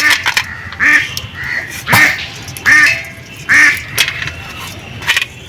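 Ducks quacking repeatedly, about once a second, over a few sharp cracks from crabs being cut up and their shells broken.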